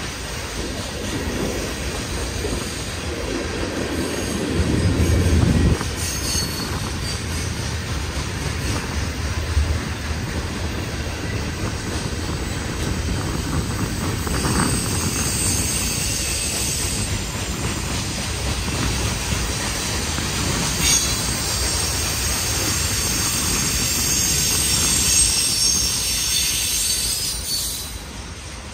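Mixed freight cars of a long manifest train rolling past, steel wheels rumbling and clacking on the rails. A high-pitched wheel squeal comes in for a few seconds around the middle and again for much of the last third.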